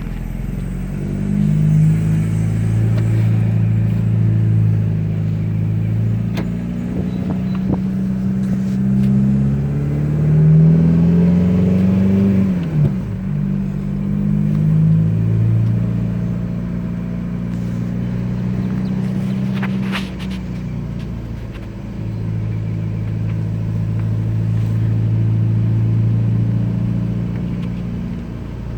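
2010 Volkswagen Jetta TDI's four-cylinder turbodiesel running through a 3-inch straight-pipe exhaust while driving at low revs. The engine note climbs and falls with the pace, with a gear change and a brief dip about twelve seconds in, and it eases off again about twenty seconds in.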